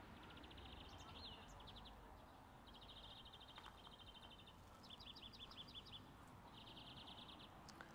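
Faint bird chirping: several short bouts of rapid, high trills, each about a second long, over quiet outdoor background.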